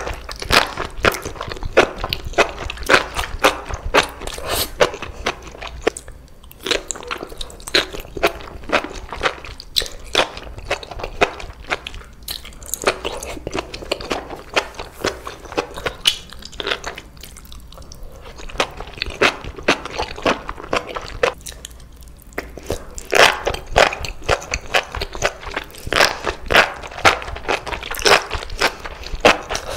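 Close-miked chewing and biting of enoki mushrooms in spicy sauce: a dense run of wet clicks and crunches that thins out twice, then is loudest in the last quarter.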